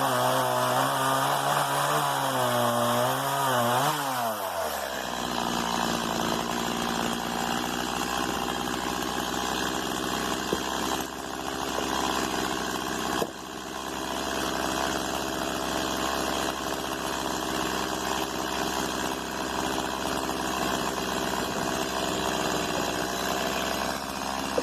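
Stihl MS 170 two-stroke chainsaw running at high revs with a wavering pitch, then dropping to a steady idle about four seconds in. A single sharp knock comes about halfway through the idle.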